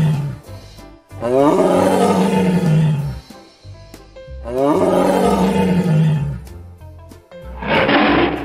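Tiger roaring: the tail of one roar at the start, then two full roars of about two seconds each, each falling in pitch, and a shorter, rougher burst near the end. Background music underneath.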